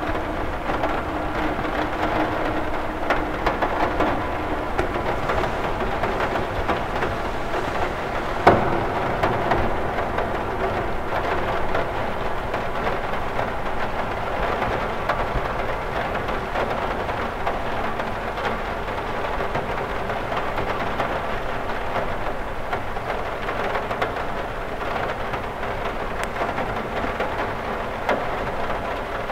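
Rain falling steadily on a window glass, a dense even patter. About eight and a half seconds in there is one sharp, louder tap.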